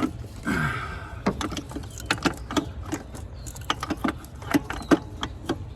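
Hand tools working a bolt on a metal bracket: a ratchet wrench clicking and metal clinking in irregular sharp strokes, with a short scrape about half a second in.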